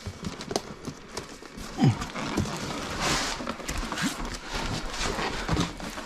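Large cardboard box being turned upside down and its polystyrene-packed contents worked out: irregular knocks and bumps with scraping and rubbing of cardboard and foam packing.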